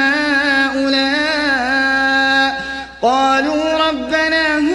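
A male reciter chanting the Quran in melodic tajweed, drawing out long held vowels with slow melodic bends. The voice breaks briefly about three seconds in for a breath, then resumes on a new phrase.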